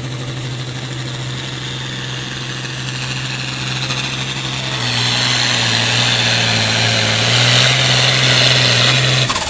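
Pulling tractor's diesel engine running hard under load, with a high whine above it. It gets louder about halfway through, then cuts back sharply near the end.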